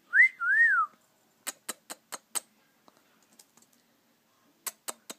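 A cockatiel whistles a short two-note phrase, each note rising then falling. Then come two runs of sharp clicks, about four a second: one around a second and a half in, and one near the end.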